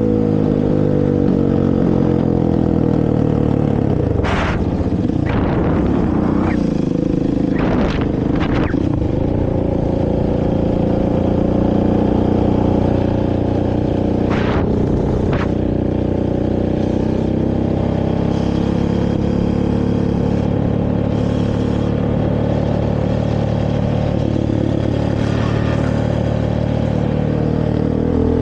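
Honda TRX450R quad's single-cylinder four-stroke engine on its stock exhaust, running and revving as it is ridden, its pitch rising and falling. A few short sharp clatters come in the first third, and two more about halfway.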